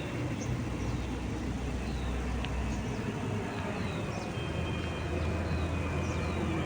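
Outdoor ambience: scattered short bird chirps over a steady low rumble, with a thin high whine lasting a couple of seconds past the middle.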